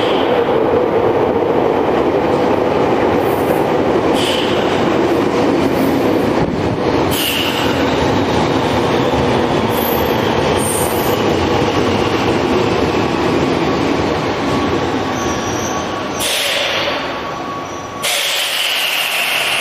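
Tokyo Metro 5000 series electric train running on the rails, a continuous loud rumble with brief high-pitched wheel squeals several times.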